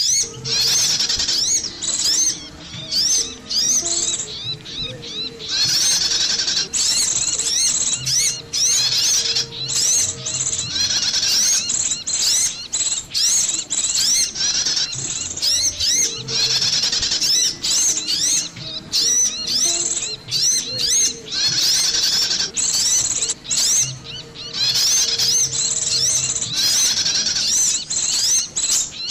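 Bird-luring call track of small songbirds: dense, rapid, high-pitched chirping and twittering in quick repeated phrases. The sequence repeats about every fifteen seconds, as a loop does.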